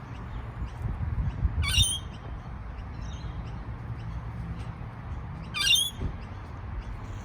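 A parrot squawking twice, two short calls about four seconds apart, with faint chirps between them over a steady low rumble.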